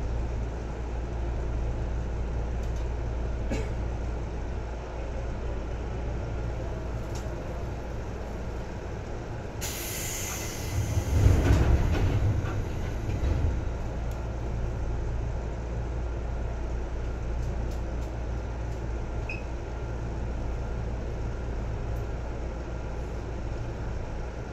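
Seibu 2000 series electric commuter train running, heard from on board: a steady low rumble of wheels and motors on the track. About halfway through, a brief hiss and a heavier, louder rumble rise over it for two or three seconds, then die back to the steady running.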